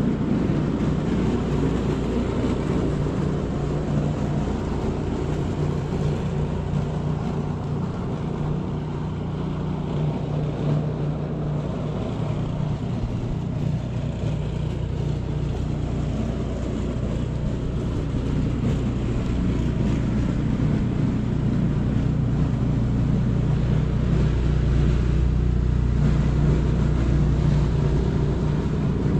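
Steady low rumble of a running vehicle, its engine hum holding at an even pitch.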